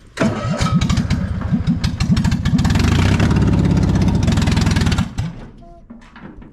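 Cold engine running poorly, 'not happy': it fires unevenly at first, settles into a steadier, louder run, then stops suddenly about five seconds in.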